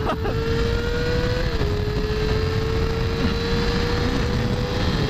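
Suzuki GSX-R 1000's inline-four engine accelerating hard in low power mode, its note climbing slowly, with an upshift about a second and a half in and another near the end. Heavy wind rush sits under it.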